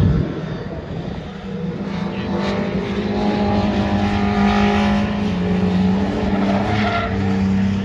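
Racing engine of a pre-1966 touring car running hard at race pace. Its note eases off about a second in, then builds again and holds steady as the car accelerates.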